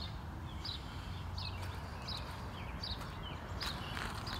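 A small bird chirping over and over, short high falling chirps about every three-quarters of a second, over a faint low hum.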